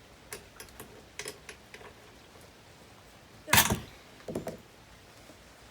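Stihl 028 AV Super two-stroke chainsaw's recoil starter pulled hard once about three and a half seconds in, with a shorter, weaker pull just under a second later. The engine, primed with starting fluid, turns over but does not fire. Light clicks of handling come before the pulls.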